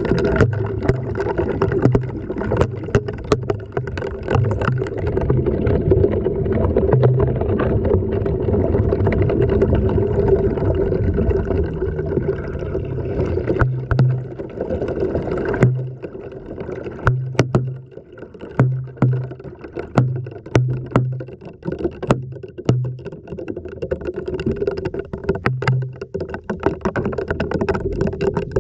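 LG washing machine running, heard from inside the drum through a GoPro's waterproof housing: a steady motor hum with throbbing low pulses and sharp knocks of the load hitting the camera. About halfway through the sound drops and thins out to separate knocks and pulses about once a second.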